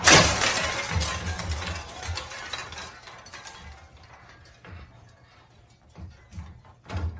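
A sudden crash of something shattering, then pieces clinking and clattering as it fades over a few seconds.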